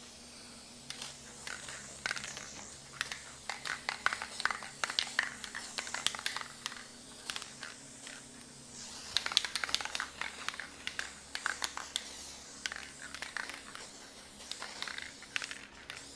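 Irregular light scratching and clicking of paint being worked onto the wooden legs of a shop creeper stool, over a faint steady hum.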